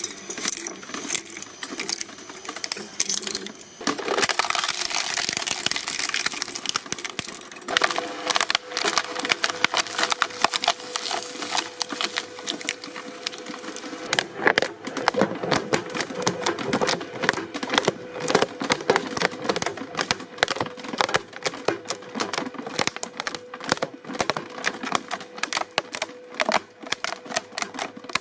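Shredding machine crushing and breaking material, a dense run of irregular cracks and snaps over a steady motor hum.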